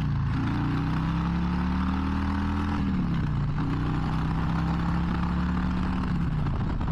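Harley-Davidson Low Rider ST's Milwaukee-Eight 117 V-twin running under way, its pitch falling twice, about three seconds in and near the end, with wind noise over it.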